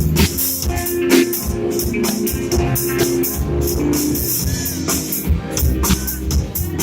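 Live rock band playing: a drum kit with quick, regular cymbal hits over electric guitar and heavy low bass notes.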